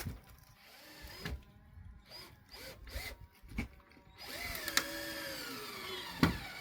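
A power drill driving a screw into pallet wood. After a few short knocks, it runs steadily for about two seconds about four seconds in, its motor pitch sagging as the screw bites in stiffly.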